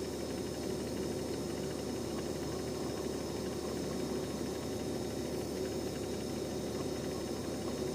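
Beko Nex 9506 refrigerator running with a steady mechanical hum. It is the abnormally loud running noise the owner has complained about, which persisted after a hose-length adjustment, a solenoid silencer and a fan replacement.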